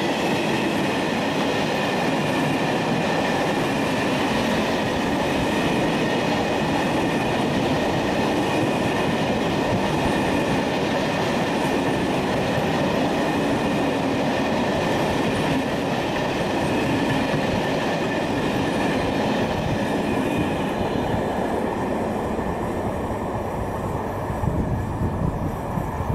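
Empty timber wagons of a long freight train rolling past at speed: a steady rumble and rattle of steel wheels on rail, with a thin steady ringing tone above it. The higher rattle thins out in the last few seconds as the tail of the train goes by.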